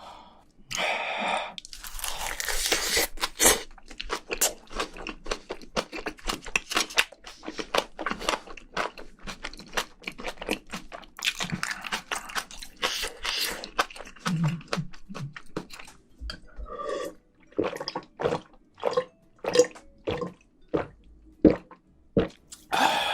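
Close-up chewing of spicy braised seafood (haemul-jjim), with dense wet mouth sounds that thin out after about sixteen seconds into separate chews, about two a second.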